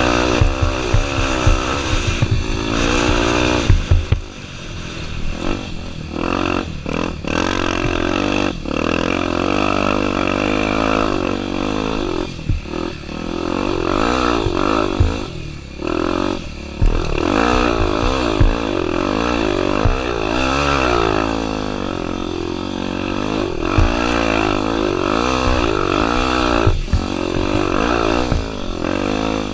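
Honda Tornado 250's single-cylinder four-stroke engine revving up and down again and again as the bike is ridden off-road, with the throttle shut briefly several times. Scattered knocks and clatter over the engine.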